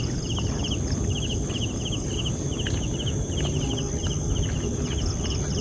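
Forest ambience: high-pitched chirping in quick groups of pips, repeating two or three times a second. Under it runs a steady high insect drone and a low rumble.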